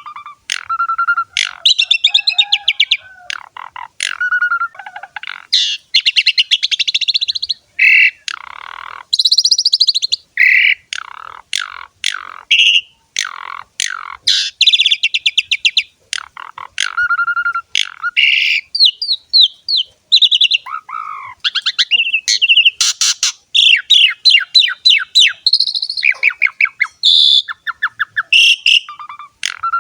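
Pied starling (jalak suren) singing in full, energetic song: a varied, almost unbroken run of clear whistles, harsh chattering phrases and fast trains of repeated notes, with only short pauses between phrases.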